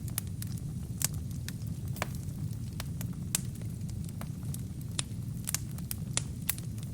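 Wood fire burning in a fireplace: a steady low rumble of flames with scattered sharp crackles and pops from the burning logs, one of the louder pops about a second in.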